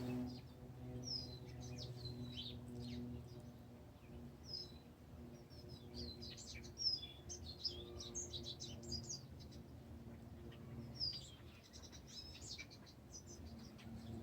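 Songbirds singing and chirping in quick clusters of high notes and short glides, over a faint steady low hum.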